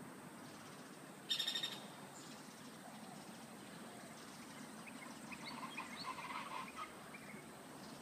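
Tropical birds calling. About a second in there is one loud, buzzy call lasting about half a second. From about five to seven seconds a bird gives a run of quick, high chirps and twitters.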